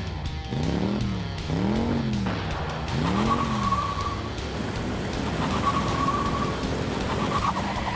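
Cartoon vehicle engine sound effect revving up and down three times. It is followed by a high, steady squeal that comes and goes in three stretches, like tyres skidding.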